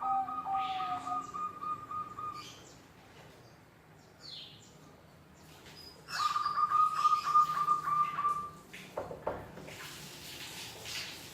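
Zebra doves (perkutut) calling back and forth: a long rolling, trilled note at the start and another about six seconds in, each lasting about two and a half seconds, with short chirps between.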